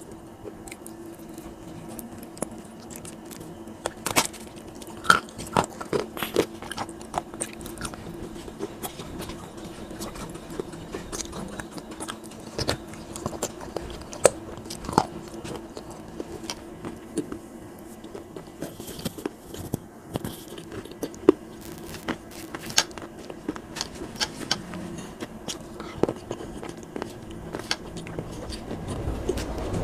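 Close-miked chewing and biting of soft wet clay, with sharp, irregular crunching clicks scattered throughout.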